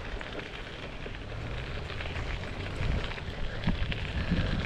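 Riding noise from a bicycle ride picked up by a head-mounted GoPro: a steady crackle of tyres rolling over the path with low wind rumble on the microphone, growing louder about three seconds in.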